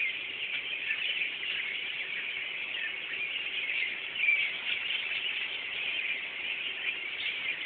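A large flock of birds chirping and chattering all at once, a dense, unbroken din of many overlapping high calls.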